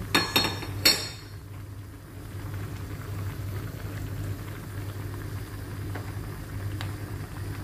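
Mussel broth simmering in a pan with lettuce, a steady soft bubbling over a constant low hum. A few sharp clinks come within the first second.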